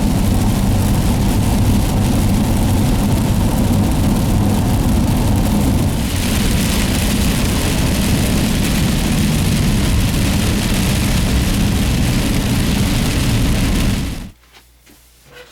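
Heavy rain and road noise inside a moving car, over a steady low engine hum. The rain hiss grows brighter about six seconds in, and the sound cuts off sharply near the end.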